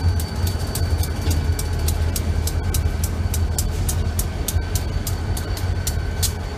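Freight train passing close by: a steady low rumble, with wheels clicking sharply over rail joints several times a second as the diesel locomotives give way to boxcars.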